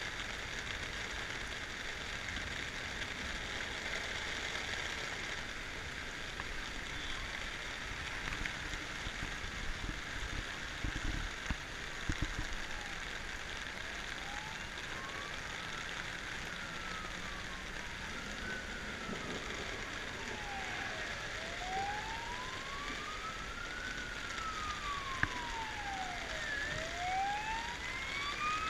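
An emergency-vehicle siren wailing, each slow rise and fall taking about four seconds; it comes in faintly about halfway through and grows louder toward the end, over a steady rushing noise.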